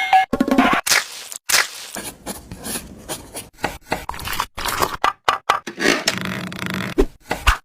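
Wood being scraped and rubbed by hand in a quick, irregular run of short strokes.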